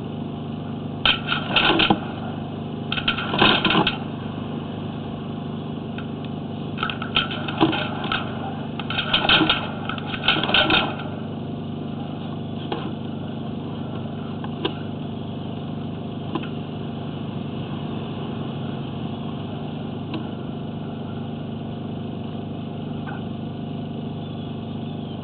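A motor runs with a steady low hum. Over roughly the first ten seconds, several clusters of sharp clattering noises sound over it, then only a few faint clicks.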